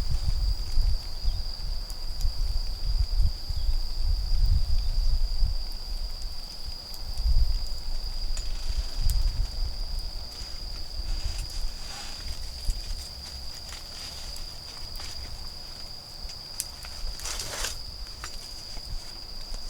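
Autumn insects calling in one continuous high, even trill, over scattered crackling clicks from a wood campfire. Low rumbling in the first half, and a short rustle near the end.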